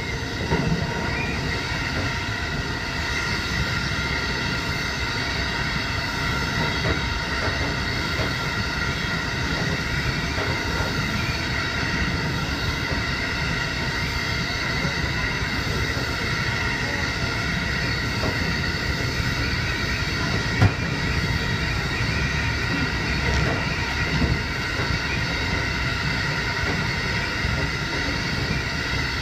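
JR Hokkaido 711 series electric train running at speed: a steady rumble of wheels on rail with several steady high whining tones over it. There is one short sharp knock about twenty seconds in.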